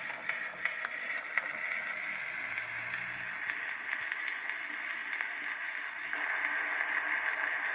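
Edison Amberola 30 cylinder phonograph running a Blue Amberol cylinder in its lead-in groove: steady surface hiss from the horn with scattered crackles and ticks, growing a little louder after about six seconds.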